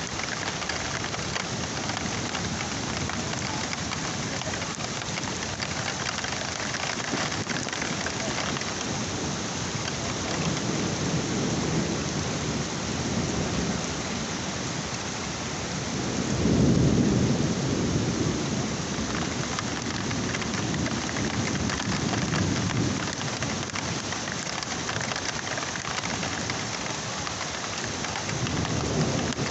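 Heavy rain pouring steadily, with low rolls of thunder rumbling through it several times, the loudest about halfway through.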